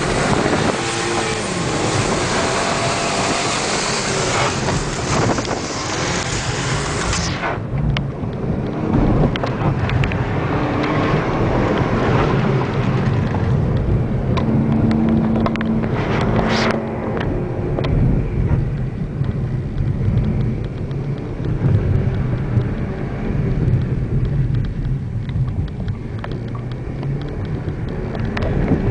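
VW Jetta 2.0T's turbocharged four-cylinder engine, heard from inside the cabin during an autocross run, revving up and falling back repeatedly as the car accelerates and slows between cones. A loud hiss rides over it and drops away suddenly about seven seconds in.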